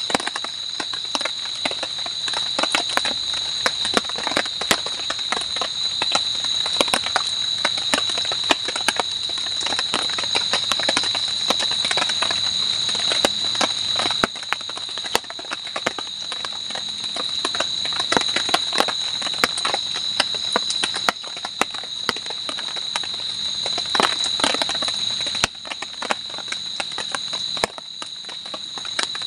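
Steady high-pitched chorus of night insects, with a dense run of irregular sharp clicks and crackles over it.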